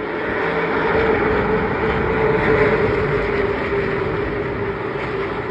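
Pack of pro late model stock cars racing past on the oval, their V8 engines swelling to a peak about two and a half seconds in, then fading as they go by.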